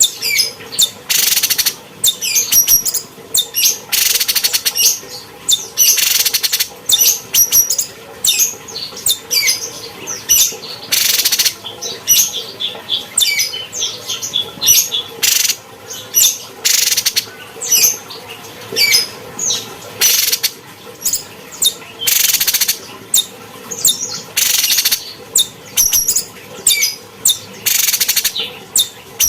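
Cucak cungkok singing: a fast run of short chirps and gliding whistled notes, broken every few seconds by brief harsh, rasping bursts.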